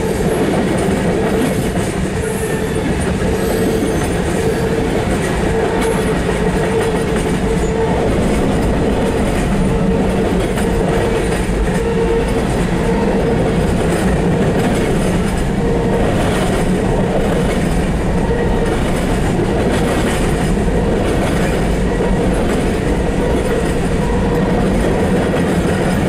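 Norfolk Southern freight train's tank cars and gondolas rolling past, a steady rumble of steel wheels on rail with clickety-clack from the rail joints and a steady tone that comes and goes, heard from inside a car.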